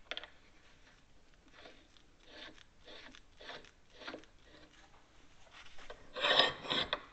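Gloved hand fitting and turning a knob on an arbor press's pinion shaft: a series of soft rubbing, rasping strokes about twice a second. About six seconds in comes a louder metal scrape as the steel handle bar slides through the pinion hub.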